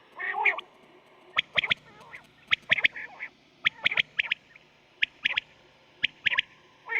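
Quail calling over and over in quick clusters of two or three sharp, high notes, with a lower, wavering call near the start. It is a recorded quail call of the kind played as a lure in quail hunting.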